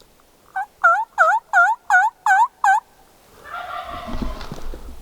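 A run of seven hen turkey yelps, about three a second, each note breaking from high to low. The yelps are made on a turkey call to draw in a gobbling tom. A quieter, rough sound follows near the end.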